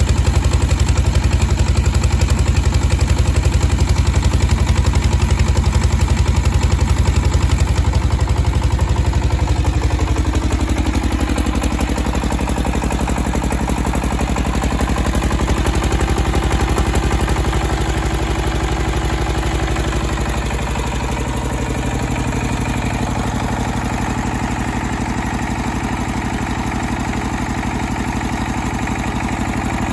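SD1110 engine running a generator on a load test, a steady low beat. About ten seconds in its sound changes and drops a little in level, and it drops again slightly a few seconds later.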